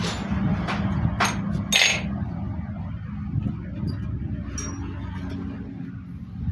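Metal tools and parts clinking and knocking: four sharp clinks in the first two seconds, the last the loudest, then a few fainter ticks. A steady low hum runs underneath.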